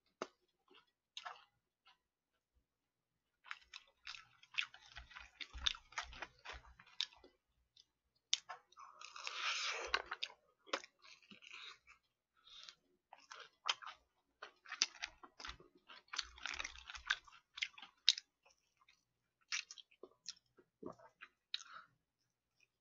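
A person chewing crisp fried chicken: crunching bites and sharp clicks in irregular bursts with short pauses between them, the densest and loudest burst about nine to ten seconds in.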